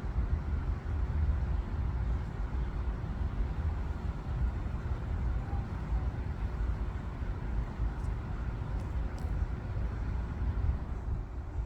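Steady low outdoor rumble with a faint, even hum and a few faint ticks near the end; no distinct sound from the cats.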